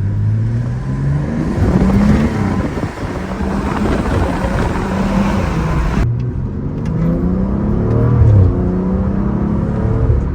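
Car engine accelerating hard, its pitch climbing and then dropping back several times as it runs up through the revs. The sound changes abruptly about six seconds in and the revving carries on.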